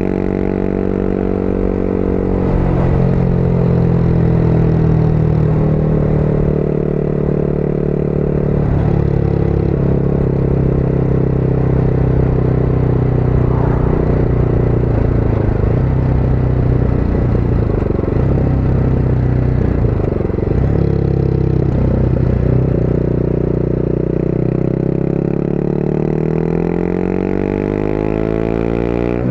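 Motorcycle engine running under way with wind noise, its note shifting with the throttle; near the end the revs rise sharply as the bike accelerates.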